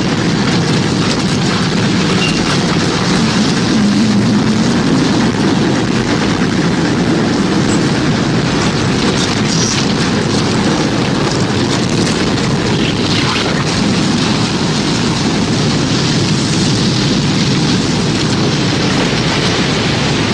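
Tornado sound effect: a loud, steady rumble of wind noise, heaviest in the low range and much like a passing freight train, with no breaks.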